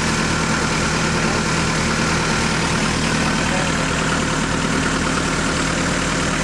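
Diesel tractor engine running steadily at idle, with an even low throb.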